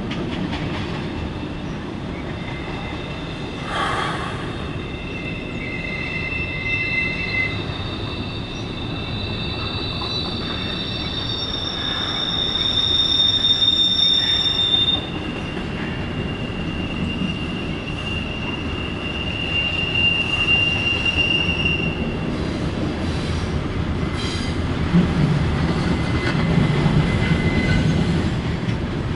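Norfolk Southern double-stack intermodal freight train rolling past, a steady low rumble of cars over the rails. High-pitched steel wheel squeals come and go over it, several at once, loudest about halfway through and fading out near the end, with a single knock a few seconds in.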